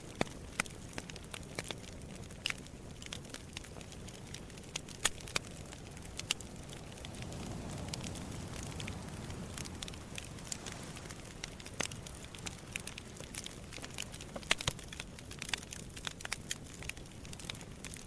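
Wood campfire crackling, with irregular sharp pops of burning logs over a low steady rush of sea waves. The wash of the waves swells up for a few seconds about halfway through.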